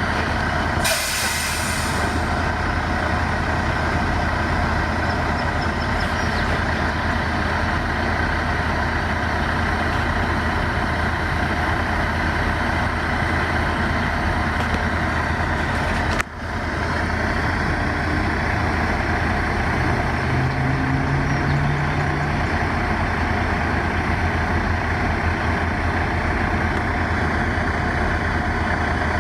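Heavy engine running steadily at a low idle-like drone, with a short hiss about a second in and a brief dropout just past halfway.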